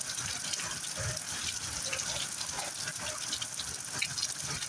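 Heavy thunderstorm rain pouring steadily, an even rush dotted with the ticks of individual drops striking.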